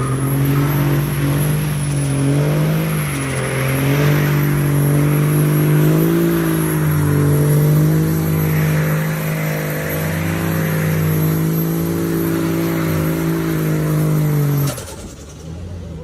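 Truck engine held at steady high revs, with a hiss of noise over it. It cuts off abruptly near the end.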